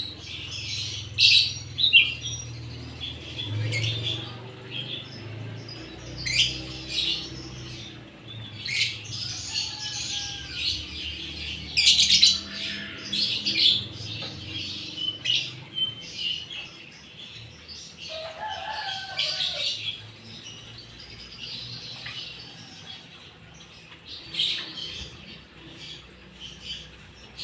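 White-eyes (pleci) chirping: many short, high calls and twitters, some loud and close, with the loudest about a second and two seconds in and again around twelve seconds in. A lower, bending call comes about eighteen seconds in.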